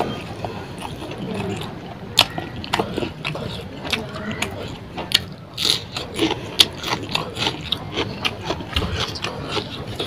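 Close-miked mouth sounds of a person eating rice and fish curry by hand: wet chewing and lip smacks, heard as an irregular run of sharp clicks, a few a second.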